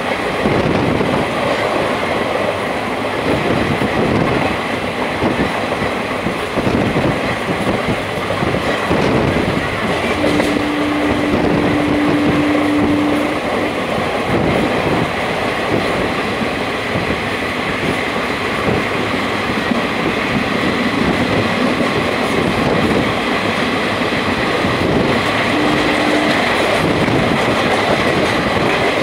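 Express train coaches running through a station without stopping, heard from an open coach doorway: a steady rumble and rattle of wheels on rail. A steady tone sounds for about three seconds around the middle, and briefly again near the end.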